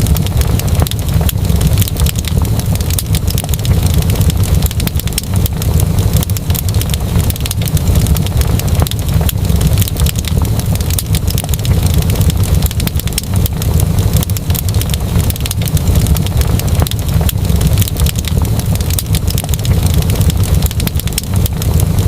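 Wood fire crackling steadily in a fireplace: a constant low rumble of flames with many sharp pops and snaps.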